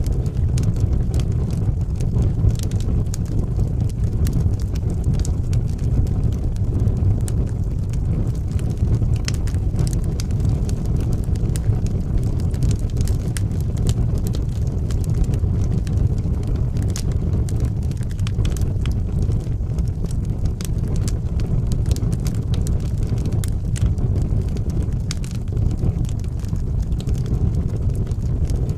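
Wood fire burning in a fireplace: a steady low rumble with frequent small crackles and pops scattered throughout.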